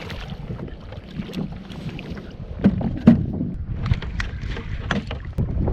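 Kayak on the water, with water sloshing against the hull and scattered knocks on the hull, the loudest two close together about three seconds in, and wind on the microphone.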